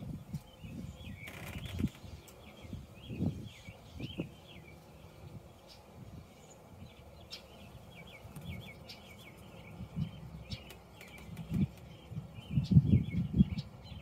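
Small birds chirping and twittering steadily in the background, short repeated high chirps, over irregular low rumbling buffets that come and go and grow strongest near the end.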